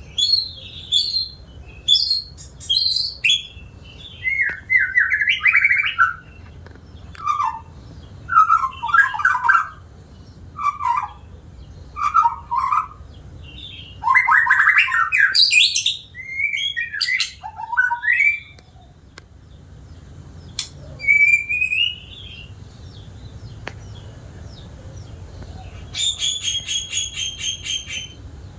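White-rumped shama (murai batu) singing: a long run of varied loud whistled phrases and chatters with short pauses, a quieter spell in the second half, then a quick rattling series of notes near the end.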